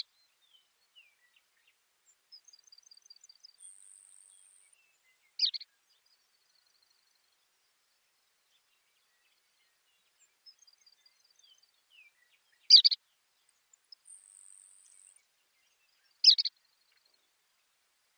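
Baird's sparrow singing twice, each song a run of short high notes ending in a high buzzy trill. Four short, sharp, louder bird notes punctuate the songs.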